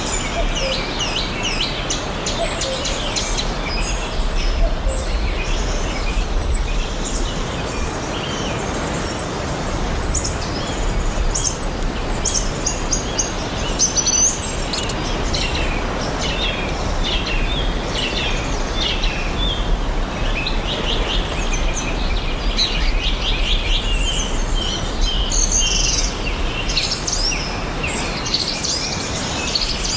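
Several small birds chirping and singing in quick short phrases, over a steady background hiss and low rumble.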